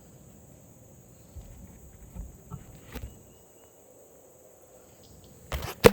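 Steady high-pitched insect chirring, with a few soft thumps from about a second and a half in and a loud sharp knock-and-clatter near the end.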